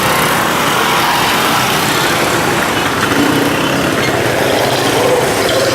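Motorbike traffic: many small engines running together in a steady, dense noise.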